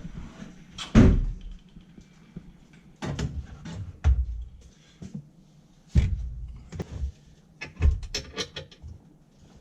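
Car passenger seat being manoeuvred into place inside a car: a series of separate thumps and knocks, the loudest about a second in, with a quick run of clicks and rattles near the end.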